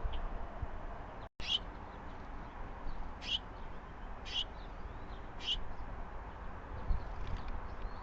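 A bird giving a short, sharp call four times, every one to two seconds, with fainter chirps between. The audio drops out briefly just before the first call.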